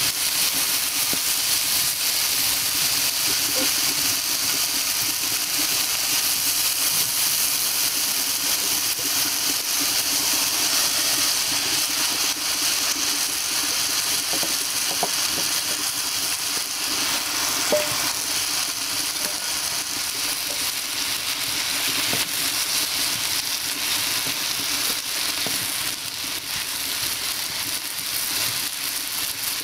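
Cubed cucumber and shredded meat sizzling steadily in oil in a black iron kadai, with a spatula stirring and scraping the pan now and then.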